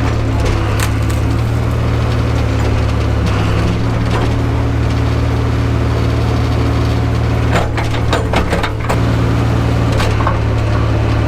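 1968 Atlas excavator engine running steadily while the machine breaks through brush, with branches and wood cracking and splintering. The cracks come thickest about eight seconds in.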